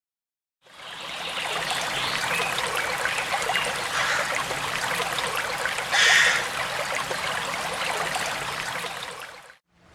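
Running water trickling and splashing, as of a small stream, with a brief louder splash about six seconds in. It fades in after a moment of silence and cuts off abruptly near the end.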